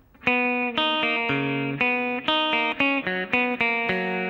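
Guitar picking a clean arpeggiated figure over a G chord, one note after another, about ten notes in all. Near the end the last notes are held and ring out together.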